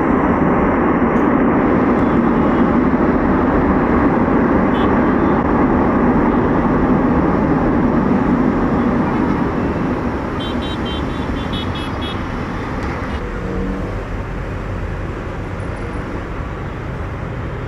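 Jet airliner engines running loud as the aircraft passes, a steady roar that eases off after about ten seconds.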